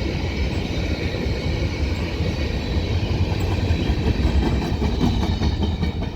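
Freight train passing close by, heard from inside a station building: a steady rumble of railcars rolling on the rails.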